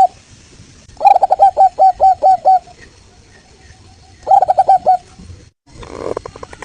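Zebra dove (local Indonesian perkutut) cooing in quick, evenly spaced staccato notes: a run of about eight notes, a faint run, then a shorter loud run of about six. Near the end, after a brief dropout, comes a rougher, noisier call.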